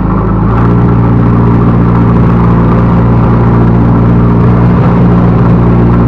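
Backhoe loader's diesel engine running at high revs under load, its pitch stepping up slightly about half a second in and then holding steady.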